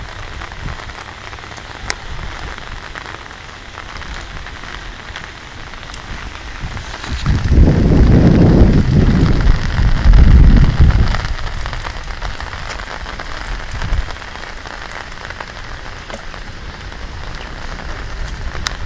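Heavy rain falling steadily, a hiss of drops on surfaces. About seven seconds in, a loud low rumble rises over it and fades away over some five seconds.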